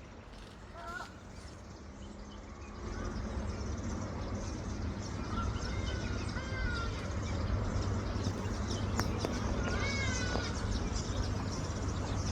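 Birds calling: many short chirps and wavering, whistled calls, some of them mewing. About three seconds in, a steady low rumble comes in underneath.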